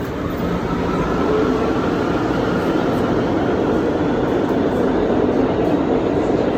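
F subway train running, heard from inside the car: a loud, steady rumble and rattle of wheels on the track that swells over the first second, with a faint whine above it.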